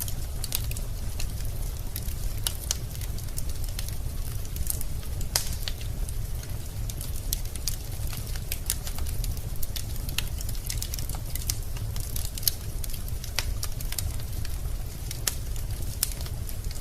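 Wood burning in a fireplace: logs crackling with irregular sharp pops over a steady low rumble of the fire.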